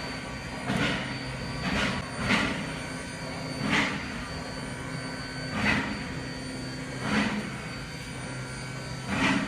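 Rail car running on track: a steady low hum with about eight irregularly spaced clacks, typical of wheels passing over rail joints.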